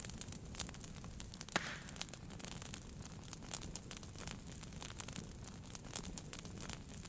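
Wood fire burning in a fireplace, crackling with irregular sharp pops over a low rumble, one louder pop about one and a half seconds in.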